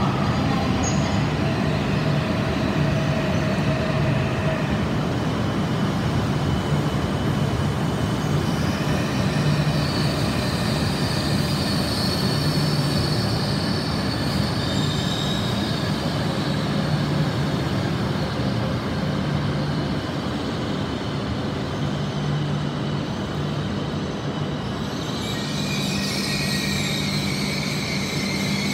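E6 series shinkansen train moving slowly along the platform: a steady rumble and hum of the running gear, with thin high-pitched wheel squeal that grows stronger near the end.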